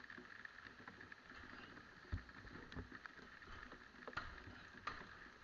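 Faint patter of rain with scattered sharp taps, like drops striking the camera, and a dull low thump about two seconds in.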